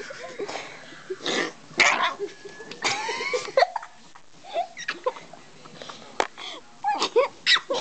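Small dog making a string of short, odd vocal noises, with a squeaky pitched whine about three seconds in.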